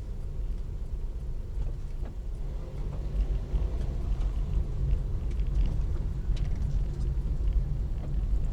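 Steady low rumble of a motor vehicle, engine and road noise, with no sharp events.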